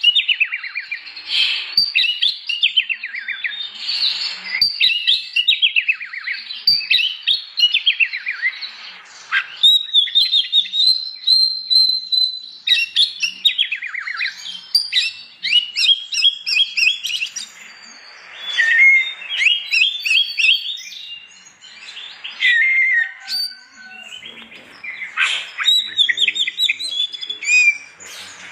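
Oriental magpie-robin (kacer) in loud full song: a continuous run of varied phrases made of fast trills, sweeping whistles and rapidly repeated notes, broken only by short pauses.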